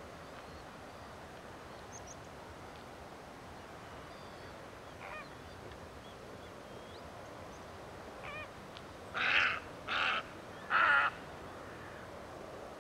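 Large water bird calling: a few faint calls, then three loud calls in quick succession about nine to eleven seconds in, over a steady background hiss.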